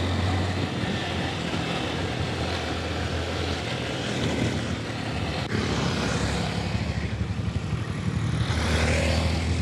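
A small 150cc motorcycle engine running steadily at cruising speed, with wind and road noise over it.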